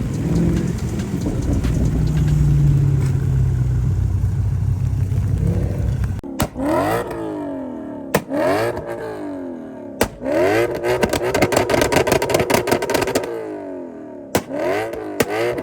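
A car engine rumbling with wind noise for about six seconds. It cuts off abruptly into a rhythm of sharp clicks and sweeping, rising-and-falling electronic tones.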